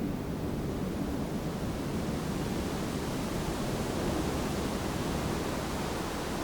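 Wind blowing steadily through a bamboo grove, an even noise with no breaks or gusts.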